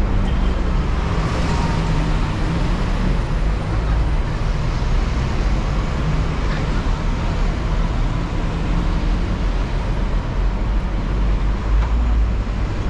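Hong Kong double-decker tram running through city traffic: a steady low rumble with street traffic noise around it.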